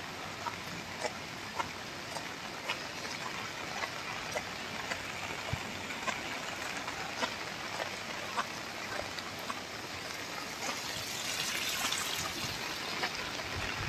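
Steady rain falling on wet pavement and foliage, with sharp light ticks about twice a second. The hiss grows louder and brighter about eleven seconds in.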